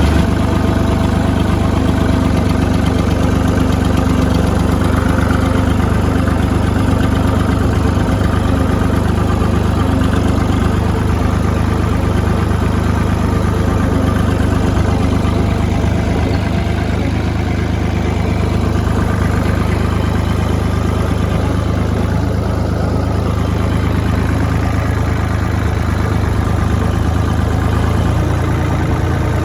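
Engine idling steadily at an even speed.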